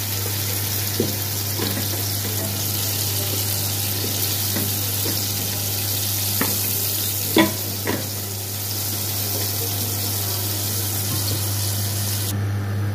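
Onion-tomato masala sizzling in hot oil in a steel pot, a steady hiss, with a few sharp clinks of a spoon on metal, the loudest about seven seconds in. The hiss drops away just before the end.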